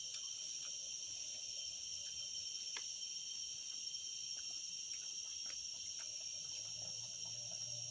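Steady, high-pitched insect chorus: several continuous shrill tones, with a few faint scattered ticks and a faint low hum coming in near the end.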